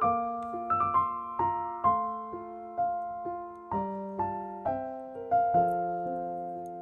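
Background music: a gentle solo piano melody, single notes struck about every half second and left to ring and fade.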